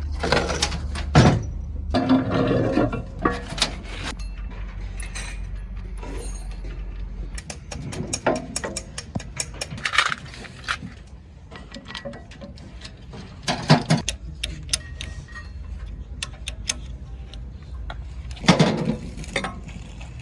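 Metal hand tools and heavy diesel engine parts clinking and clanking during workshop work, with scattered light clicks and several louder clanks. A steady low hum stops about seven seconds in.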